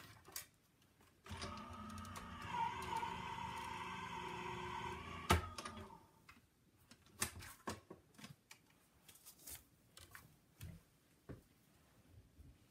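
Die-cutting machine running paper and an oval die through its rollers: a steady mechanical whir with a whine that lasts about four and a half seconds and stops. Then scattered clicks and rustles as the paper is handled.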